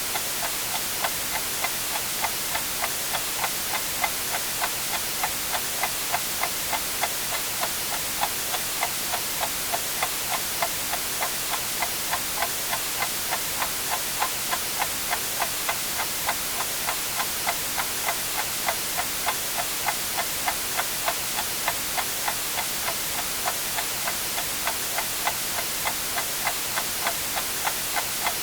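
A clock ticking evenly, about two ticks a second, over a steady hiss of white noise.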